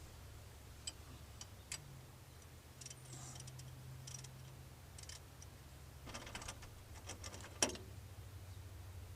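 Scattered metal clicks and ticks from a ratchet wrench on the 15mm clamp bolt as it is loosened, with a quick run of clicks about two-thirds of the way through and one sharper clack near the end.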